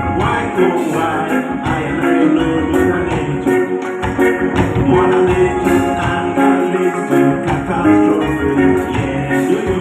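Live band playing an instrumental passage, with guitar, tambourine and a steady beat.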